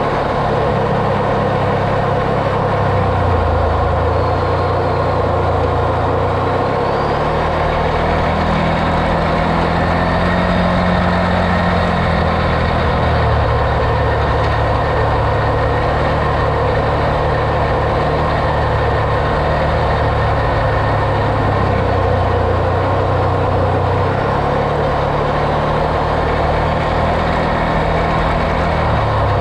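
Off-road vehicle's engine running as it drives, with a continuous hum that rises and falls in pitch several times as the engine speed changes.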